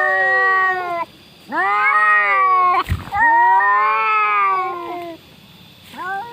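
Cats yowling in a street fight: long drawn-out caterwauls that waver in pitch, three long ones one after another and a short one near the end. A single sharp knock sounds about three seconds in.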